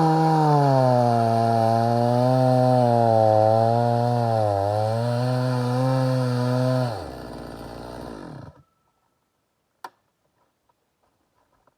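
Stihl MS290 two-stroke chainsaw running hard in a cut, its pitch dipping and recovering as it works through dry wood. About seven seconds in, the revs fall away and the engine stops.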